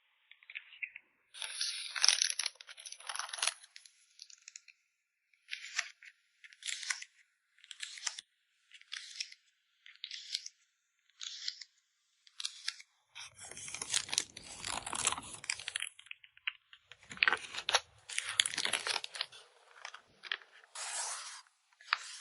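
Plastic and paper packing materials being handled: a series of short crinkling, rustling and tearing sounds with brief pauses between them, the fullest ones past the middle.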